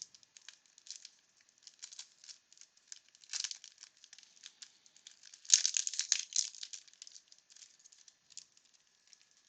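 Wax-paper wrapper of a 1992 Bowman baseball card pack being torn open and crinkled by hand, in irregular bursts of crackling that are loudest just past the middle.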